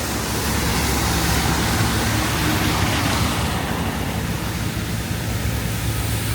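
Steady rushing noise of strong wind on the microphone mixed with city street traffic, with a low steady engine hum underneath.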